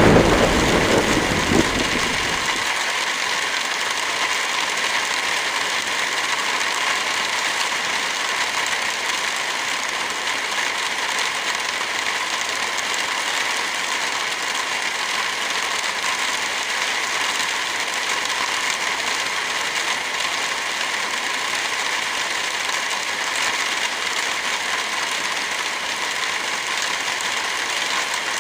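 Steady rain with a fire crackling, opened by a rumble of thunder that dies away in the first two seconds or so.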